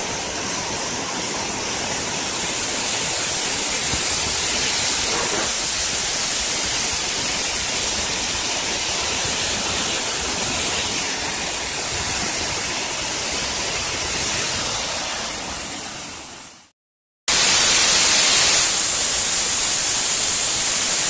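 Waterfall rushing steadily. About three-quarters of the way through it fades out to a moment of silence, then comes back abruptly and slightly louder.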